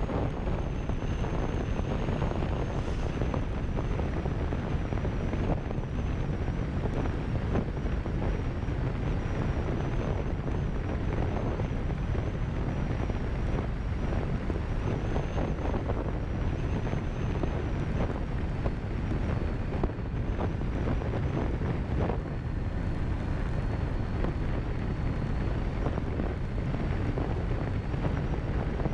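Wind buffeting the microphone of a camera on a moving motorcycle, with the motorcycle running underneath in a steady, unbroken rush.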